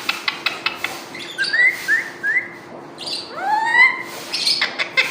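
Pet parrot clicking, then giving three short rising chirps and one longer rising whistle.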